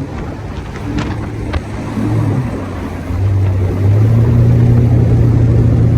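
Small speedboat's engine running under way, over wind and water noise; the engine note steps up in pitch and loudness about three seconds in and again a second later, then holds steady at higher throttle.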